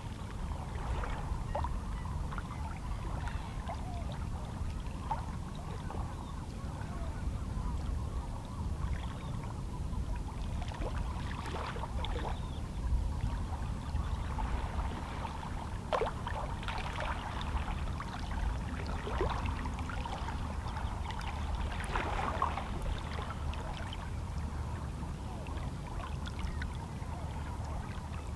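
Small waves of a calm sea lapping and splashing against shoreline rocks: irregular short splashes over a steady low wash of water.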